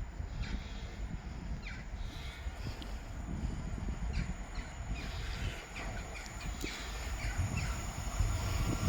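Low rumble of an approaching train, growing louder toward the end, with birds calling in short falling chirps.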